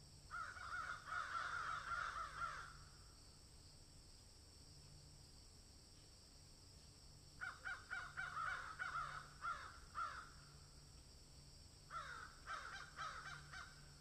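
A bird calling in three bouts of rapid, repeated notes, each bout two to three seconds long, with pauses between them.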